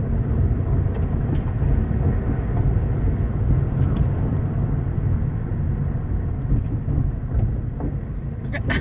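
Cabin noise of a 2008 Mazda 5 minivan being driven: a steady low rumble of engine and tyres. No clunk is heard from the suspension or mounts as it is tested over speed bumps, a sign that the clunk is fixed.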